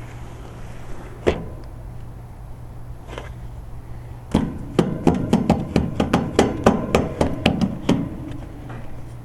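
A quick run of about fifteen sharp knocks, roughly four a second, after a single knock about a second in, over a steady low hum.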